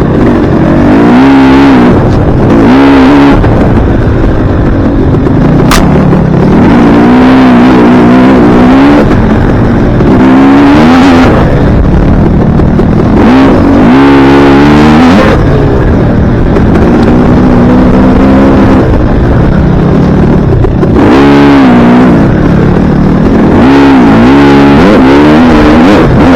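Dirt bike engine revving hard and easing off over and over as the rider works the throttle through the gears, its pitch climbing and dropping every couple of seconds.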